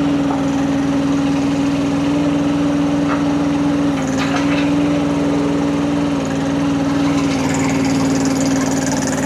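Rippa RS06 mini skid steer's engine running steadily while the machine holds up a pallet loaded with concrete blocks. Its pitch sags slightly about four seconds in and again around six seconds.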